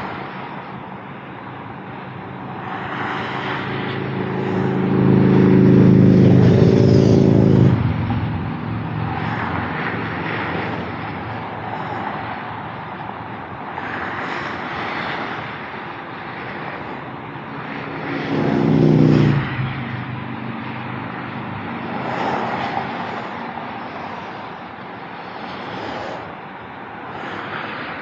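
Autobahn traffic streaming past: a steady hiss of tyres on the road that swells and fades as cars pass. Twice, a few seconds in and again about two thirds of the way through, a louder vehicle goes by with a deep engine drone.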